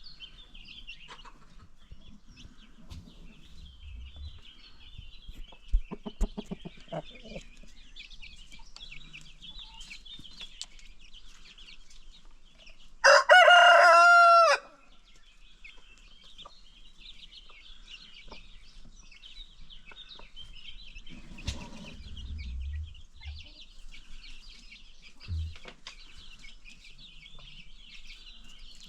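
A rooster crows once, loud and about a second and a half long, over steady high chirping from the flock. A few seconds before it there is a short run of rapid hen clucks.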